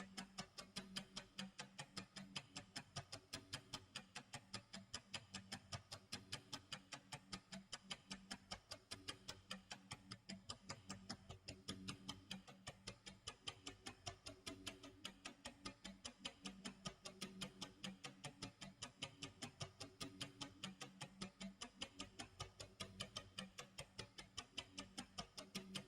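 Clock tick-tock sound effect: a steady, even run of faint ticks, with a soft low hum underneath that swells and fades every few seconds.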